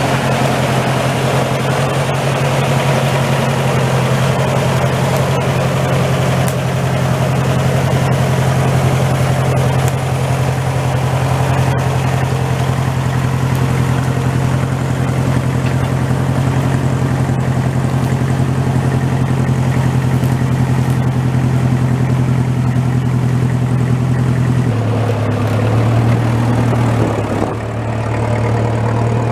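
Tractor engine running steadily at a constant speed; about 25 seconds in its pitch steps slightly lower, with a brief drop in level shortly after.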